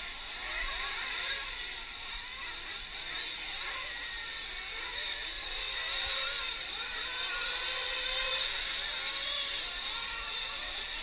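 Nitro RC truck engines running on the track: a steady high-pitched whine, with the pitch wavering up and down as the trucks rev and ease off.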